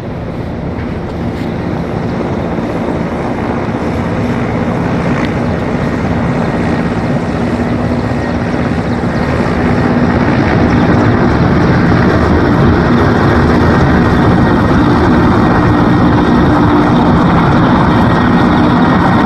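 Mil Mi-17 helicopter's rotor and twin turboshaft engines, growing louder over the first ten seconds as it comes in to land, then holding loud and steady.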